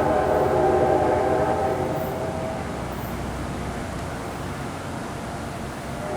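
Locomotive air horn sounding a chord of several pitches that fades out about two and a half seconds in, over the steady rumble of a train on the rails.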